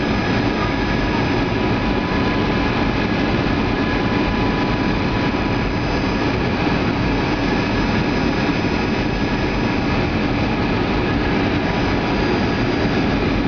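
Boeing 757-200 on final approach: steady jet engine and airflow noise, with a thin steady whine that fades out about halfway through.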